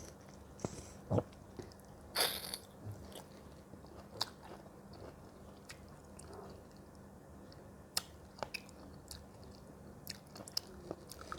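A person biting and chewing fruit close to the microphone: scattered crisp crunches and wet mouth clicks, with a louder bite about two seconds in.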